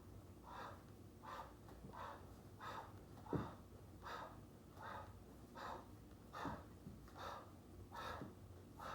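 A person breathing hard under exertion while exercising, in quick, even breaths about three every two seconds. One low thump a little over three seconds in.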